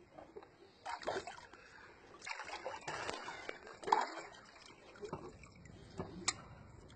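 Swimming-pool water splashing and sloshing in irregular surges, with a sharp click about six seconds in.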